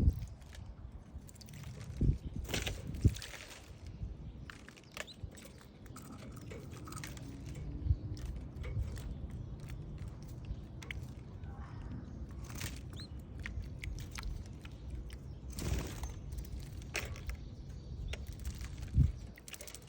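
Canaries bathing: scattered light clicks, taps and flicks, with a few louder knocks about 2, 3 and 19 seconds in, over a low background rumble.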